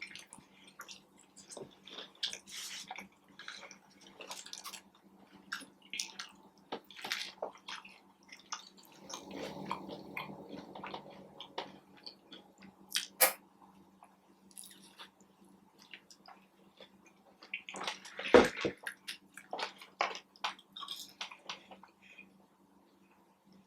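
Close-up eating sounds: a person biting and chewing food, with many small wet smacks and clicks, and a louder bite about three-quarters of the way through.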